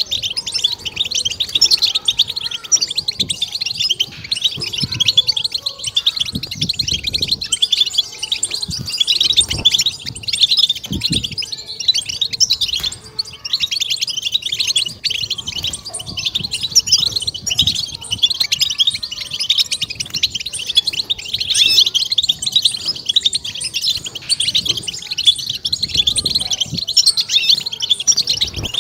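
European goldfinch song: a fast, unbroken twittering chatter of rapid high chirps and trills, the 'batbata' song that keepers play to stimulate caged goldfinches.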